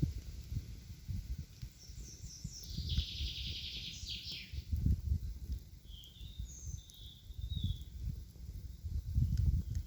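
Wild birds singing: short high chirps, then a fast trill about three seconds in, then several whistled calls later on. Under them runs an uneven low rumble that swells every second or so.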